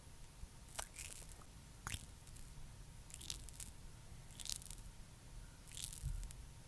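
Faint, sticky, squishy sounds of a thick skincare product such as petroleum jelly or a rich cream being worked, in short crackling bursts roughly once a second.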